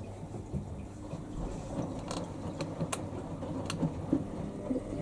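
Washing machines running mid-wash: a steady low hum with irregular knocking from the turning drums, and a few sharp clicks between about two and four seconds in.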